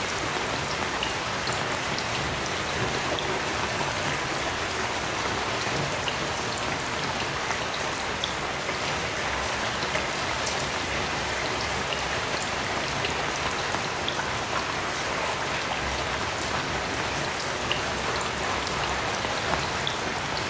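Heavy rain falling steadily, a dense even hiss with individual drops ticking here and there.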